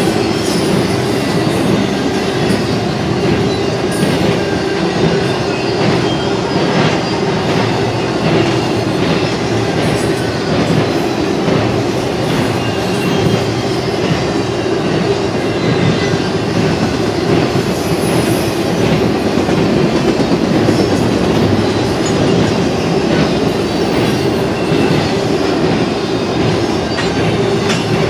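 BNSF intermodal freight train's spine cars, loaded with truck trailers, rolling past: a steady rumble of steel wheels on rail with scattered clicks of the wheels.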